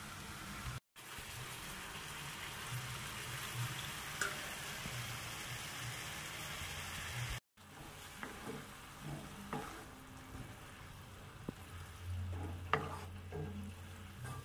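Grated raw mango sizzling in ghee in a nonstick pan as hot palm jaggery syrup is poured in. After a brief break, a wooden spatula stirs and scrapes the sticky mixture, with scattered light clicks against the pan.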